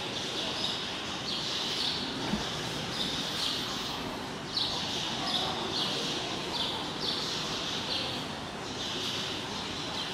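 A bird chirping over and over, short high calls one or two a second, over a steady background hum.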